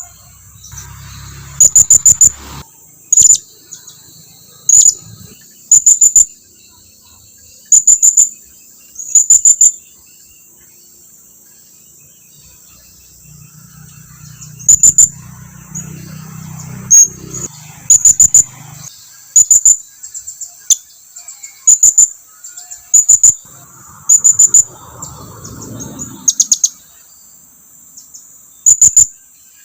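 Blue-crowned hanging parrot (serindit) giving shrill, very high-pitched call notes in quick clusters of two to four, repeated every second or two with a few seconds' pause about a third of the way in: contact calls to draw other birds closer.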